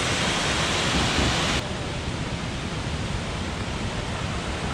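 Waterfall's rushing water, a steady full-range roar that about a second and a half in turns abruptly quieter and duller.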